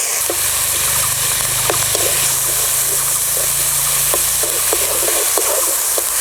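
Onion paste sizzling as it fries in hot oil with whole spices in a kadai, with scattered short pops and crackles. A low hum underneath stops about five seconds in.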